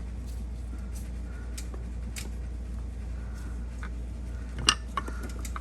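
Light metallic clicks of brake pad clips and shims being handled and fitted: a handful of scattered clicks, the sharpest about three-quarters of the way through, over a steady low hum.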